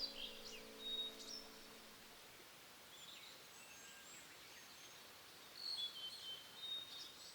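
Wild songbirds singing and calling faintly outdoors: quick chirps and short whistles in a cluster near the start and another about six seconds in, over a soft even hiss. A held low musical tone fades away about two seconds in.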